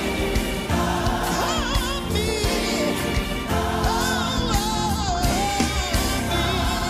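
Gospel-style song: a solo voice singing over a choir and full band accompaniment.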